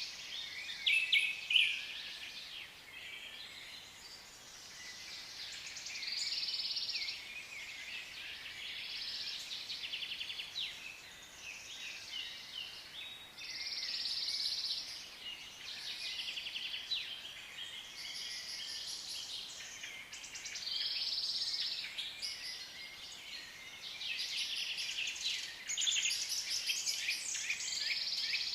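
Several African lovebirds chattering: a dense, continuous stream of high-pitched chirps and squeaks that swells into louder bouts every few seconds.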